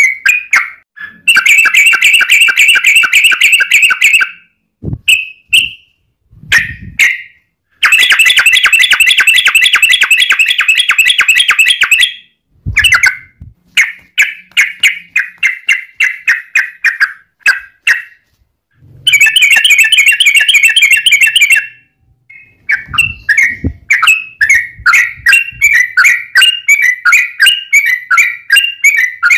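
Yellow-vented bulbul singing: long, very rapid rolling trills of three to four seconds each, alternating with runs of separate chattering notes. Near the end the song turns into a steady run of quick notes.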